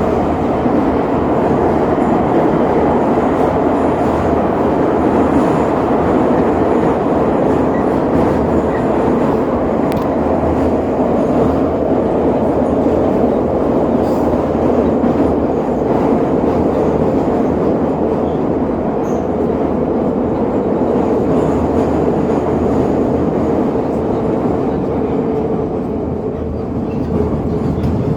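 Suburban electric train running along the track, heard from inside the carriage: a steady, loud rumble of wheels and running gear.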